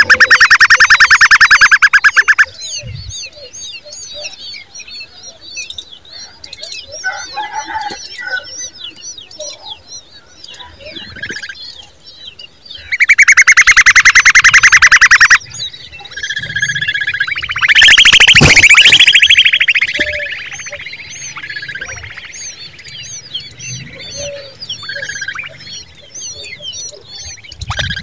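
Bird calls: thin chirps throughout, broken by two loud, harsh rattling calls of a few seconds each, one at the start and one about halfway through, and a loud falling sweep about two-thirds of the way in.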